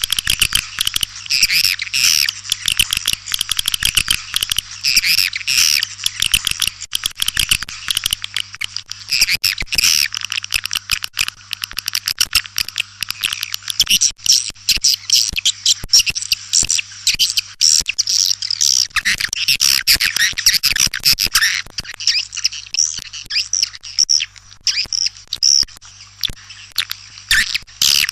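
White-nest swiftlets chirping and twittering in a dense, continuous chorus of rapid high chirps and clicks. This is a swiftlet call recording, the kind played in swiftlet houses to lure the birds in. A faint steady low hum runs beneath it.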